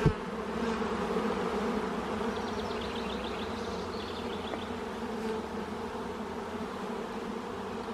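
Honeybee colony of an opened hive buzzing with a steady hum.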